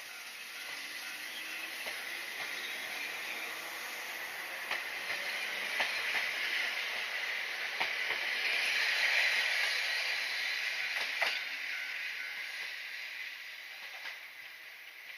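A Sanki Railway Sangi Line train running past on the track, its rushing noise swelling to a peak about nine seconds in and then fading, with a few sharp wheel clacks along the way.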